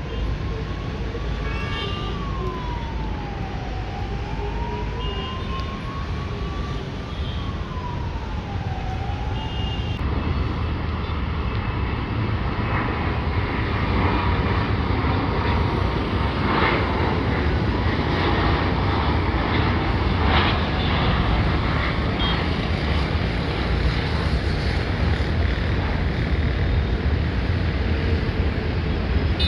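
A siren wailing slowly up and down for the first nine seconds or so, over a steady background rumble. About ten seconds in the sound changes to a louder, steady roar of a landing private jet.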